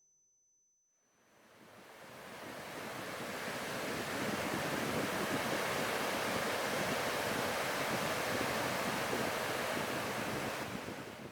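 Steady rushing of wind and sea surf, fading in over the first few seconds after a moment of silence.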